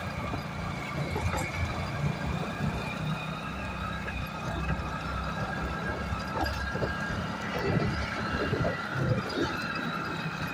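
Hero Glamour 125cc single-cylinder motorcycle engine running steadily under way, heard muffled through a phone carried in the rider's shirt pocket: a continuous low rumble with a fainter higher whine that drifts slowly in pitch.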